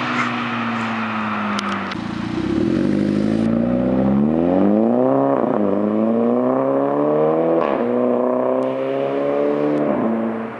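Volkswagen Golf GTI MKV's turbocharged 2.0-litre four-cylinder through a Billy Boat downpipe and Eurojet R32-style cat-back exhaust. The engine note falls off, then the car accelerates hard, the pitch climbing through the gears with three upshifts about two and a half seconds apart.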